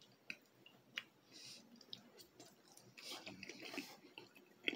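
Faint chewing of a mouthful of soft, chewy Hot Pocket pastry, with scattered moist mouth clicks and a busier stretch about three seconds in.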